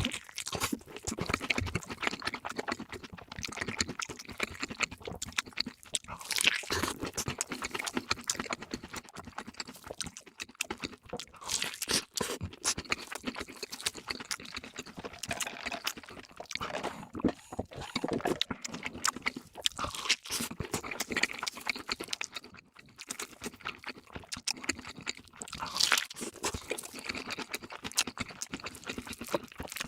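Close-miked chewing and crunching of crispy fried food, with dense irregular crackles and a few louder bites.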